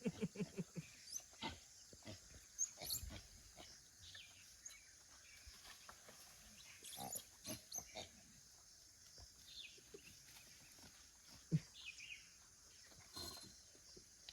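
Gray langurs moving about at a wall: scattered soft knocks and scrapes, with a short low grunting call right at the start. Faint bird chirps sound in the background.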